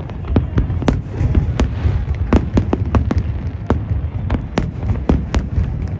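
Fireworks show heard from a distance: sharp cracks and pops of bursting shells, two or three a second at uneven spacing, over a continuous low rumble of booms.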